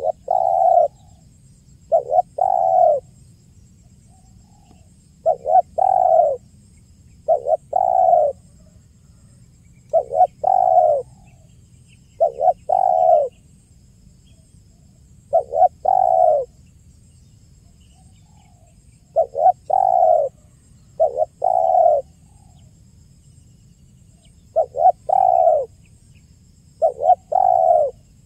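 Spotted dove (tekukur) cooing over and over. Each phrase is a short note followed by a longer one, coming about every two seconds with a few longer pauses.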